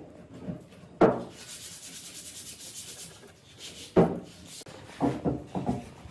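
Wood being worked by hand: a sharp knock, about two seconds of rubbing or sanding on wood, then another knock and a run of short scraping sounds.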